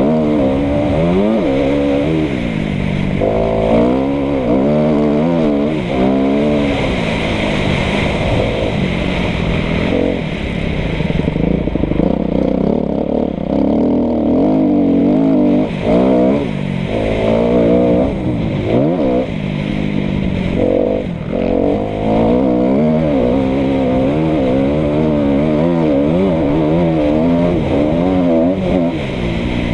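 A 2013 Kawasaki KX250F's single-cylinder four-stroke engine being ridden hard: its pitch keeps rising and falling as the throttle is opened and closed through the gears. It briefly cuts back a few times around the middle.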